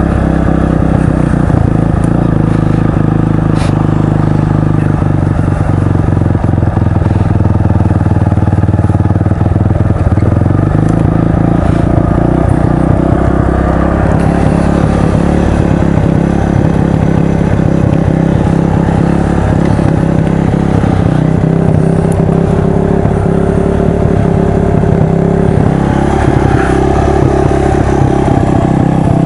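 Dual-sport motorcycle engine running steadily, its pitch shifting about ten seconds in and again near the end.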